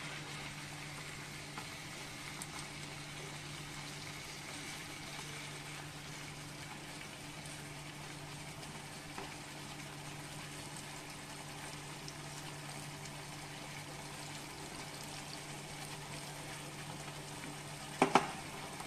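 Prawns in a red chilli masala sizzling and bubbling in oil in a frying pan, cooking down towards a dry roast, with a steady low hum underneath. Near the end a wooden spatula knocks against the pan.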